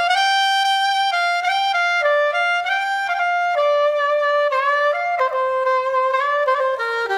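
A saxophone plays a slow melody alone, one held note after another with no accompaniment. The line steps lower through a few quicker notes near the end.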